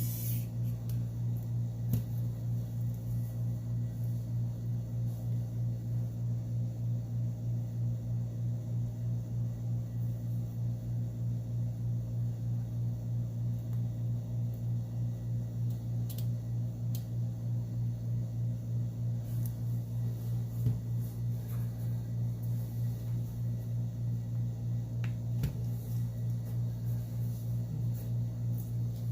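Steady low hum with an even, rapid throbbing, like a running fan or motor, broken by a few sharp small clicks and taps, the loudest about twenty seconds in.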